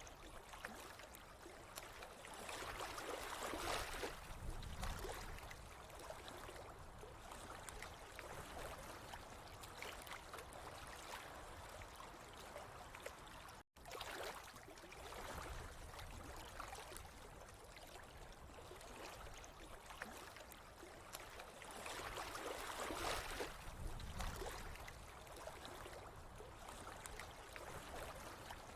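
Running water trickling and gurgling steadily, swelling louder twice, with a split-second dropout about halfway through.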